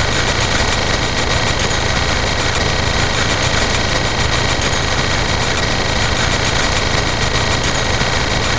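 A small motor running steadily with a fast, even rattle and a constant high whine.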